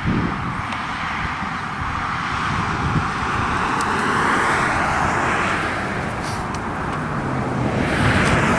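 Rushing noise of passing road traffic, swelling and fading as vehicles go by, loudest about halfway through and again near the end.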